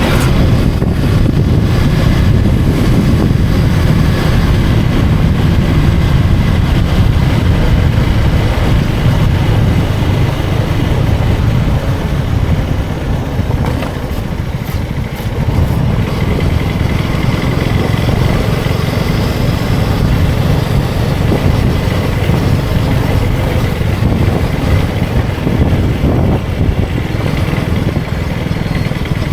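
Motorcycle engine running under way, a steady low engine sound that eases off slightly for a few seconds around the middle.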